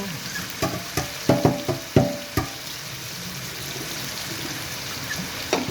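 Diced chicken sizzling in hot oil with garlic and onion in a pan, with a utensil knocking against the pan several times as it is stirred during the first two and a half seconds, then a steady sizzle.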